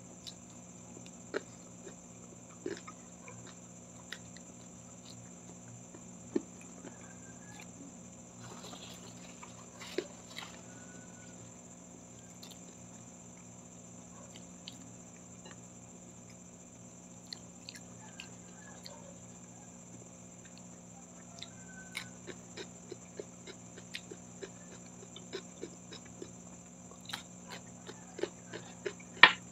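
Close-miked chewing and mouth sounds of someone eating crisp fried milkfish and rice, with scattered short crunches and wet clicks that come thicker near the end.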